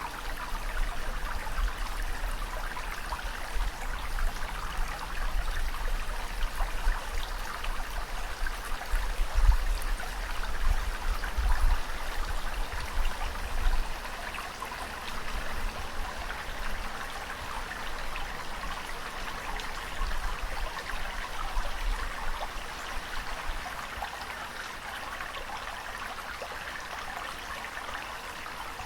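Moving water: a continuous, even rush. Low rumbles come in around the middle, and the rush is a little quieter in the second half.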